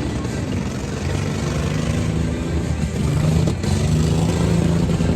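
Monster truck engine running loud and revving, its tone strengthening and getting louder about three seconds in.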